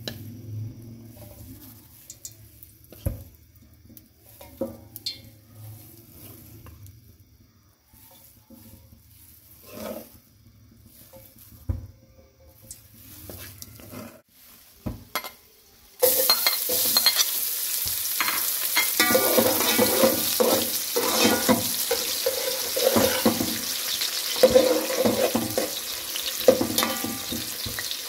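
Food frying in hot oil in a cooking pot. The first part is quiet, with scattered knocks and clicks of kitchen handling. About sixteen seconds in, food goes into the oil and it suddenly sizzles loudly, with a steady hiss and frequent scrapes and clinks of a utensil stirring in the pot.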